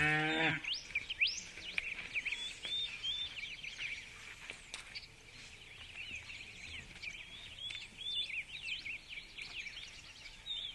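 Birds chirping rapidly over a steady high-pitched hum, with a brief pitched call at the very start.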